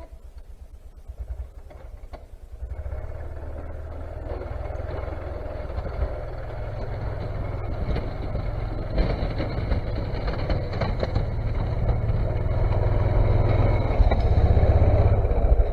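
Engine of a snowplow vehicle running. It is faint for the first couple of seconds, then grows louder and keeps building toward the end, with a few knocks and clatters mixed in.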